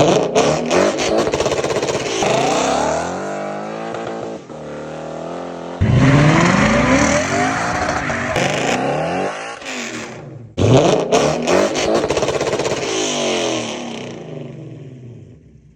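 Lexus 5.0-litre V8 exhaust under hard acceleration, the engine note climbing again and again through the gears. It comes in suddenly and loud about six and ten and a half seconds in, and fades away near the end.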